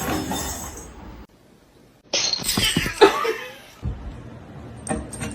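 Background music fading out in the first second, then a short gap. About two seconds in a cat lets out a loud, noisy cry lasting a couple of seconds, followed by quieter sounds and a few sharp clicks.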